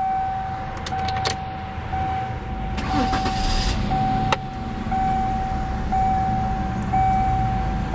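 Dashboard warning chime in a 2001 Mercury Cougar, one steady tone repeating about once a second, over the V6 engine idling. A sharp click is heard about four seconds in.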